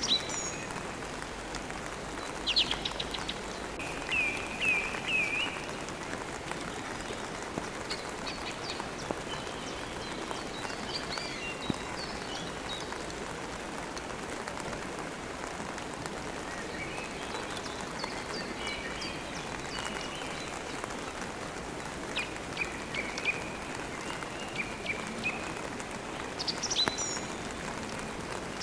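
Steady rain falling, with birds chirping on and off over it, including a quick run of four chirps about four seconds in.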